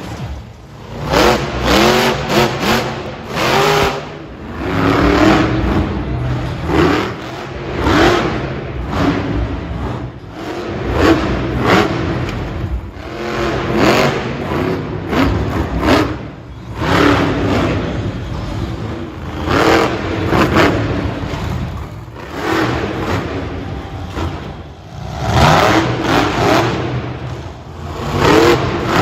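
Monster truck engines revving hard in repeated throttle bursts, a surge about every two seconds, the pitch rising with each one.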